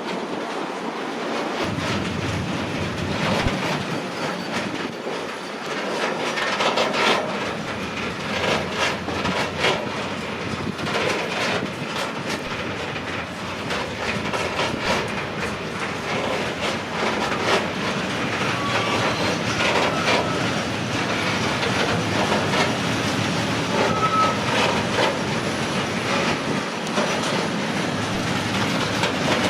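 A train passes close by, its wheels clattering over rail joints in a long run of clicks. Two short, high wheel squeals come in the second half.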